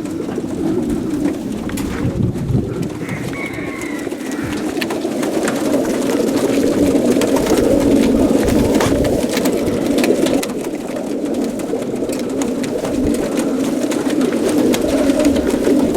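A large flock of young racing pigeons cooing together in transport crates: a dense, continuous chorus of overlapping coos, with scattered light clicks among it.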